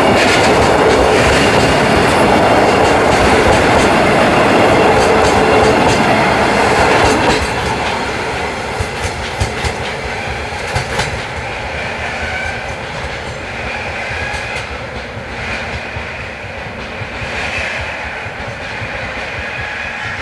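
Oil freight train of tank wagons rolling past, wheels clacking over the rail joints. About seven seconds in the noise drops sharply as the end of the train goes by, leaving a quieter fading rumble with a few scattered clicks.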